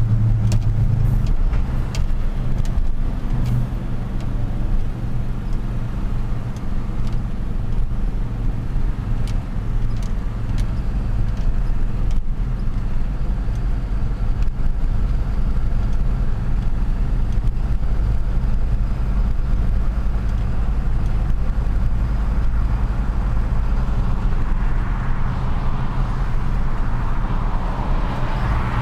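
Truck engine running steadily with a low hum while driving in city traffic. A rushing hiss builds over the last few seconds.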